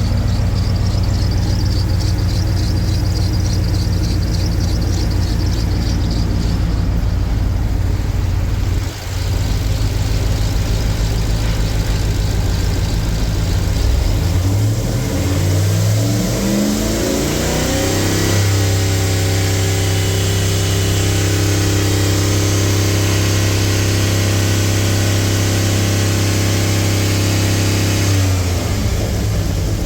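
2008 GM 4.8-litre gasoline V8 running: it idles steadily, is revved up over a few seconds about halfway through, holds at raised speed for about ten seconds, and drops back to idle near the end.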